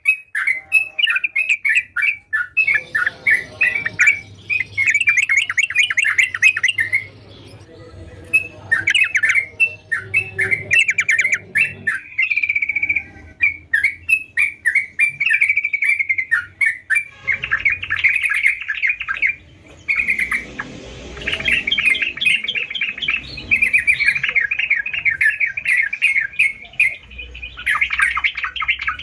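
Yellow-vented bulbul (trucukan) singing in full voice: long runs of rapid, chattering chirps with short pauses between phrases, over a faint low hum.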